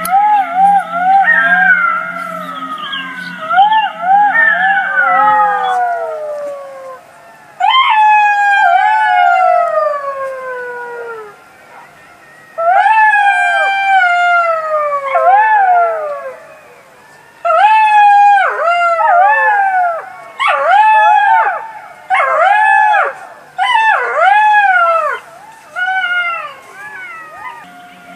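A pack of jackals howling: overlapping wavering cries at first, then bouts of long falling wails with short pauses between them, giving way to shorter rise-and-fall yelps near the end.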